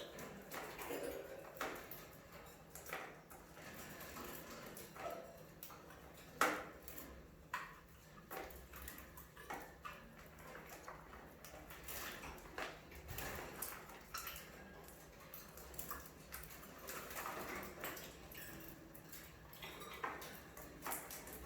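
Budgerigars chirping and chattering in short calls, mixed with many sharp clicks and taps.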